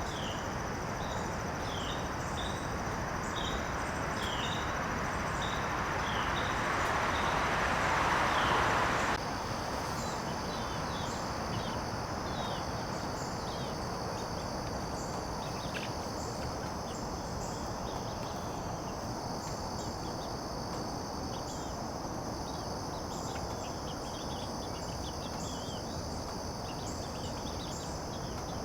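Garden ambience: a steady high trill of crickets or similar insects, with short falling bird chirps repeating throughout. A rushing hiss swells over the first several seconds and cuts off suddenly about nine seconds in.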